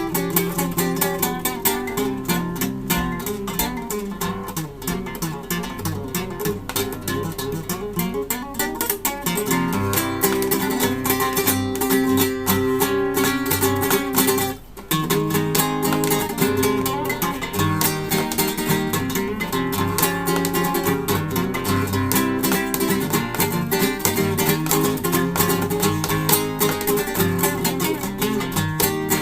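Solo acoustic guitar playing a continuous run of plucked notes and strummed chords, with a brief pause about halfway through.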